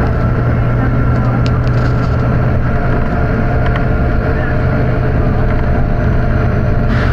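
Volvo B9TL double-decker bus's diesel engine running steadily with a strong low hum, and a few small clicks between one and two seconds in.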